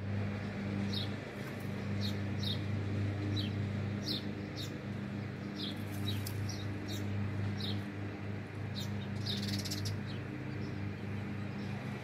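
Small bird chirping: about a dozen short, high, downward chirps at irregular intervals, fading out after about ten seconds. A steady low hum runs underneath and is louder than the chirps.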